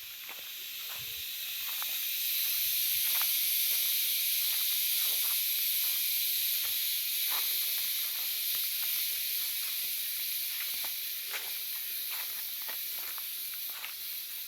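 A chorus of insects giving a steady high-pitched hiss, swelling over the first two seconds and then holding, with scattered faint clicks underneath.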